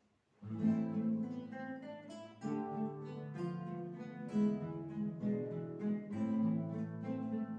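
An ensemble of acoustic guitars starts playing about half a second in, several guitars plucking a melody over a steady bass line.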